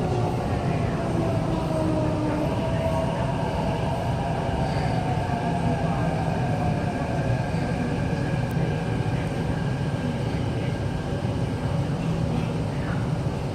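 MTR Kwun Tong Line metro train heard from inside the car: a steady low rumble of wheels on rail, and a motor whine that falls in pitch over the first few seconds as the train slows, then holds as steady higher tones.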